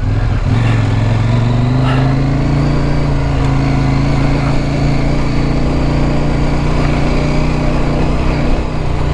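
Motorcycle engine running steadily at road speed, heard from on the bike, with the rush of wind over it; the engine note rises a little in the first second and then holds.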